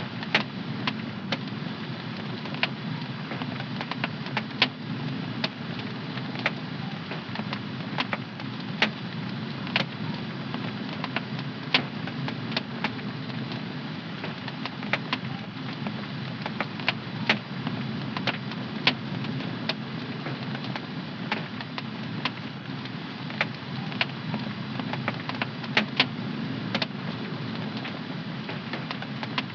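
Wood fire in a home fireplace crackling: irregular sharp pops and snaps, several a second at times, over a steady low rush of the burning fire.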